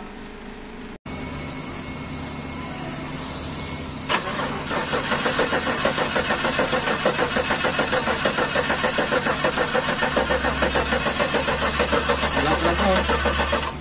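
2008 Chevrolet Tahoe's engine being cranked over by its starter, with the starter relay bypassed. It churns in a steady rhythm of several pulses a second without catching, after a sharp click about four seconds in.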